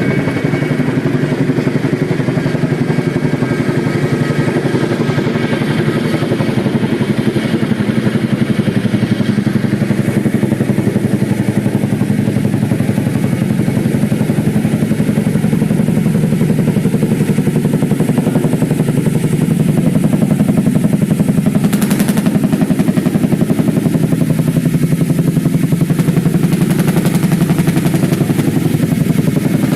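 Chinook tandem-rotor helicopter running, a loud rapid steady beating of the rotors, with a faint high whine that fades in the first third and a brief hiss about two-thirds through.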